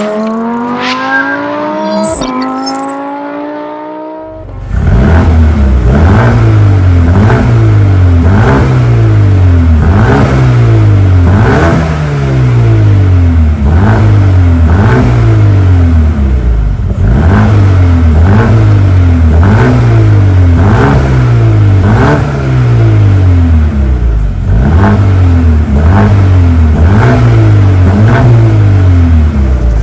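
Mercedes-AMG CLA 35's turbocharged four-cylinder engine through a Stage 2 aftermarket sport exhaust. Its pitch climbs for the first few seconds. It is then revved in repeated throttle blips, about one a second, each dropping back, in several bursts with short breaks between them.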